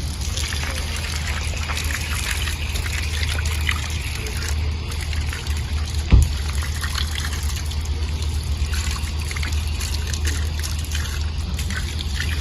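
Water trickling and splashing steadily, with a low rumble underneath and a single sharp thump about six seconds in.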